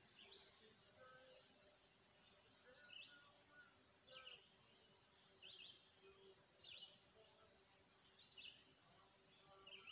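Faint bird chirps, short high notes repeated roughly once a second, over a faint steady hum.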